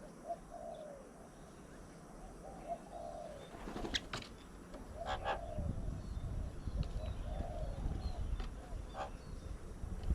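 Doves cooing in short low phrases, repeated several times, with sharp brief calls of other birds around the middle and near the end. A low rumble sets in about halfway.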